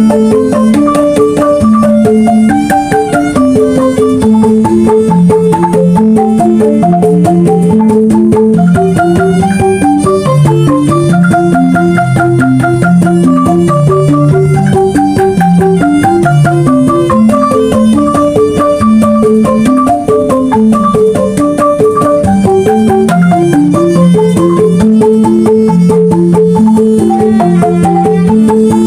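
Banyuwangi angklung ensemble playing a traditional gending: struck bamboo xylophones carry a fast, unbroken run of short notes over drum percussion.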